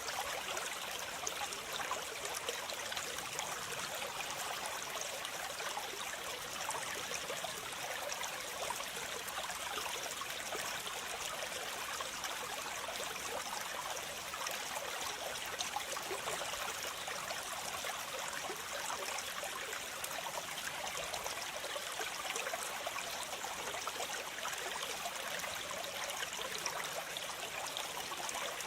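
Running water falling and splashing in a steady rush, the sound of a small waterfall, with no change or break.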